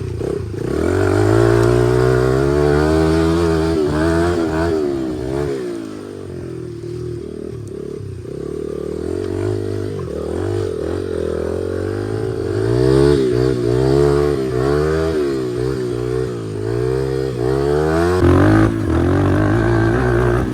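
2003 Honda XR80's small four-stroke single-cylinder engine running with its exhaust baffle removed, the engine pitch rising and falling over and over as the throttle is opened and closed.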